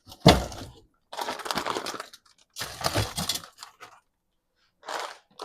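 A frozen-food package set down with a thump, then plastic freezer bags crinkling and rustling in two long stretches and a short one near the end as they are handled.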